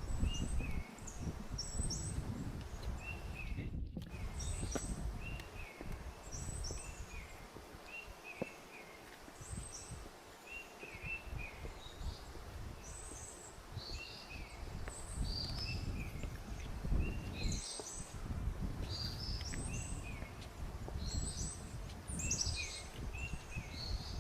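Small forest birds calling in short, repeated chirps, about one a second, over a low, uneven rumble of footsteps on a forest trail. The sound drops out for an instant about four seconds in.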